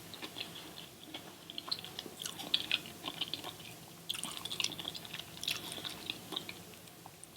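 A person chewing a mouthful of seafood boil close to the microphone: an irregular run of small soft clicks and crackles from the mouth.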